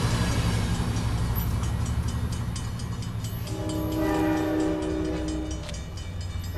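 Amtrak Pacific Surfliner train pulling away: a steady low diesel drone with light wheel clicks, fading. About three and a half seconds in, a train's multi-note air horn sounds a chord for about two seconds.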